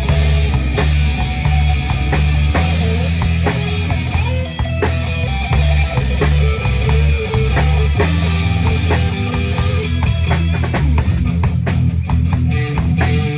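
Live rock band playing without vocals: electric guitar over stepping bass notes, with drum-kit hits throughout.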